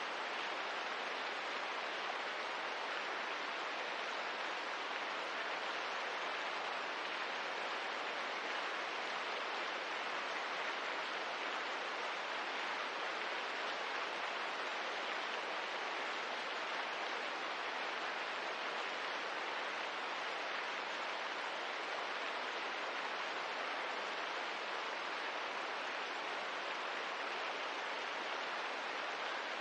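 Steady rain ambience: an even, unbroken hiss of falling rain with no separate drips or fire crackles standing out.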